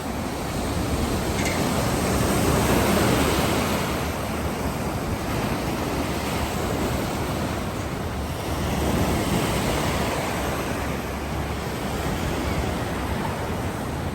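Black Sea surf washing onto the shore in a steady rush, swelling louder twice as waves break, about three seconds in and again around nine seconds. Wind buffets the microphone throughout.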